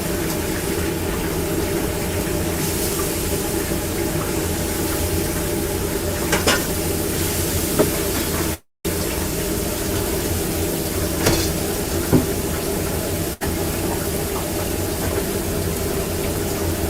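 Steady hiss and hum of a food-trailer kitchen, with a few light clicks and knocks; the sound cuts out completely for a moment about halfway through.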